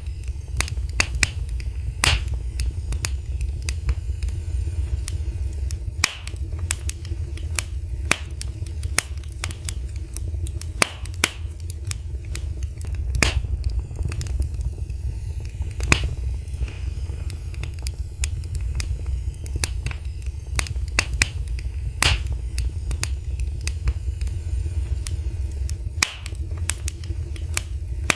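Fire in a fireplace crackling, with irregular sharp pops and snaps, a few louder than the rest, over a steady low rumble of the flames.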